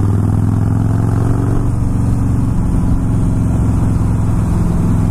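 Loud motorcycle engine running at steady low revs.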